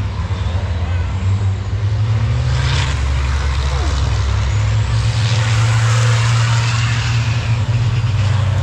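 Racing trucks' diesel engines running with a steady low drone, with a short air-brake hiss about three seconds in.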